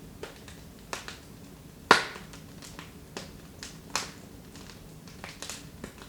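Wood fire in a fireplace crackling: irregular sharp pops and snaps over a low steady hiss, with one loud pop about two seconds in. The fire is burning low, late in its burn as it dies down.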